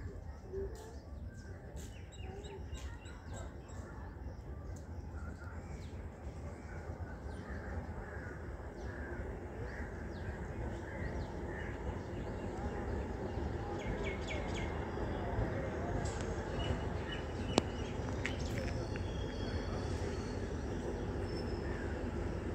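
Birds chirping over a steady low rumble that grows slowly louder as a DEMU (diesel-electric multiple unit) train approaches along the line. A single sharp click stands out about two-thirds of the way through.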